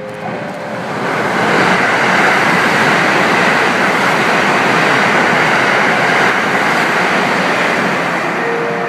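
Limited express electric train running through a station at speed. The rush of wheels on rail and air swells up about a second in, holds, and fades near the end as the train passes.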